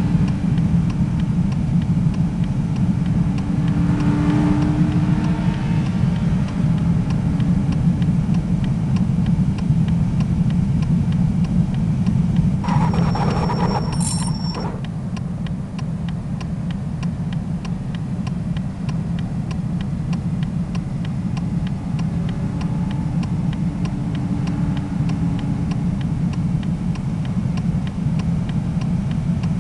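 Steady low drone of a road vehicle driving, with a brief higher-pitched sound about halfway through.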